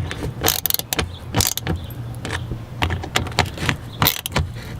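Hand tool driving screws with washers back into a car's empty mudflap mounting holes: a run of short, irregular clicks and scrapes.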